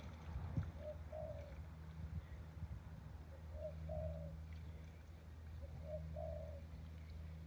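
A dove cooing three times, each call a short note followed by a longer one, about two and a half seconds apart, over a low steady hum.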